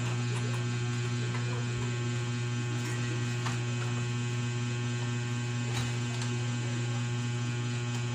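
Steady, loud electrical mains hum, a low drone with a stack of higher overtones, with a couple of faint clicks about three and a half and six seconds in.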